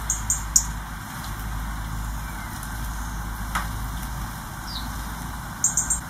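Small garden birds calling: a few short, high-pitched chirps near the start and a quick cluster of them near the end, with a faint short whistle or two in between, over a steady low background rumble.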